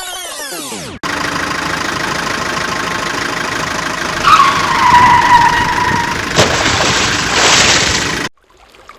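A vehicle engine running steadily, with a short squeal about four seconds in. It starts and stops abruptly, like an edited-in sound effect. A sweeping transition effect comes just before it.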